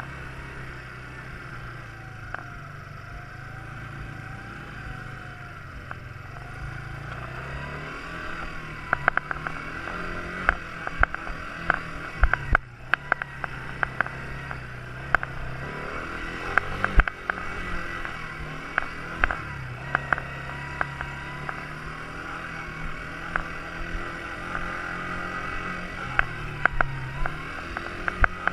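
Quad bike engine running, its pitch rising and falling as the throttle is opened and eased off. From about eight seconds in, frequent sharp knocks and rattles join it.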